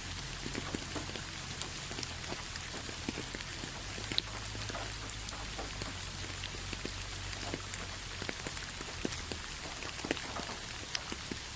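Steady rain with many separate drops pattering and ticking on a surface, over a low steady rumble.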